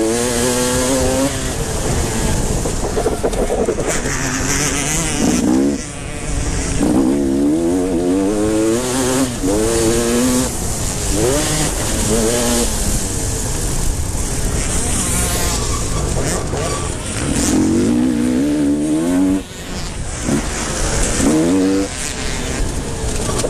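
Motocross motorcycles racing, their engines revving hard in repeated quick rising and falling sweeps as riders accelerate, shift and back off, with several bikes overlapping at times.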